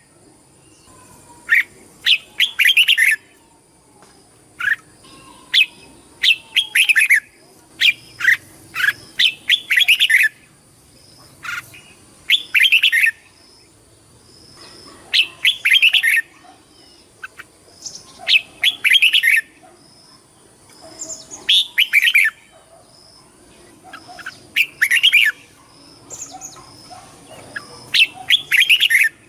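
Red-whiskered bulbul singing: short, loud warbling phrases repeated every two to three seconds, with a thin, steady high-pitched tone behind them.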